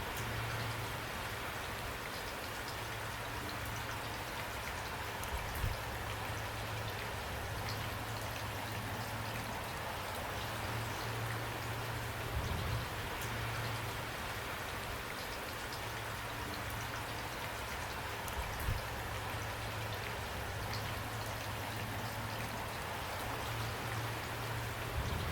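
Steady, dense rainfall, with a low steady hum beneath it and a few soft low thuds, about three times.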